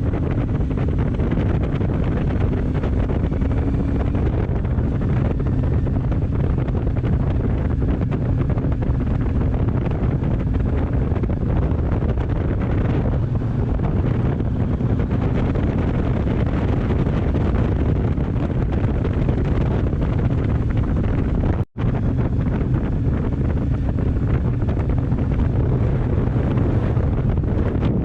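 Motorcycle engine running steadily under way, mixed with heavy wind noise on the microphone, with a momentary gap about three-quarters of the way through.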